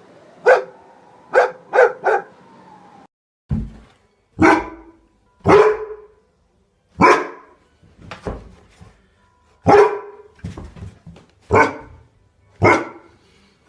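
Dogs barking: a quick run of four barks in the first two seconds, then a break near three seconds and a different recording of single barks about every second or so.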